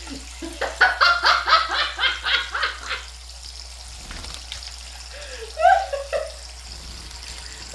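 A quick run of laughter, about a dozen short ha's in two seconds, followed a few seconds later by a couple of short gliding voiced notes, over a steady faint hiss of running water.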